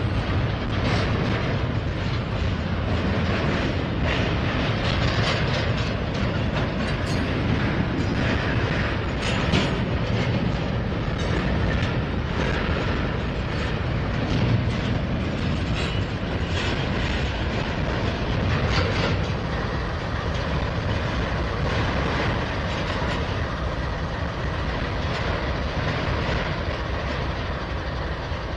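Double-stack intermodal freight train's well cars rolling past steadily, with wheels clicking and knocking over rail joints. The rolling noise eases a little in the last part as the end of the train goes by.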